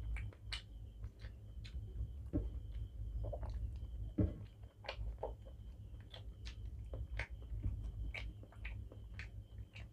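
Close-up eating sounds from rice and egg curry eaten by hand: wet lip smacks, mouth clicks and chewing, in irregular short strokes. A steady low hum and a faint high chirp repeating at regular intervals run underneath.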